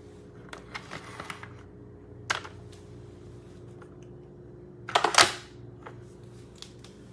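A few scattered clicks and knocks over a faint steady hum, with a sharp knock a little over two seconds in and the loudest, a quick cluster of clicks, about five seconds in.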